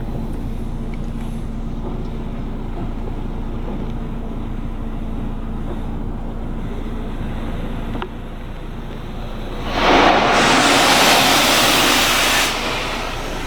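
Automatic car wash machinery heard from inside the vehicle: a steady low hum, broken about ten seconds in by a loud rushing hiss that lasts nearly three seconds and then stops.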